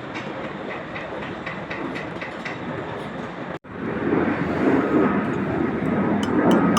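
Steady crackling hiss of an arc welder laying build-up weld on a conveyor roller. It cuts off abruptly about halfway through, then comes back louder.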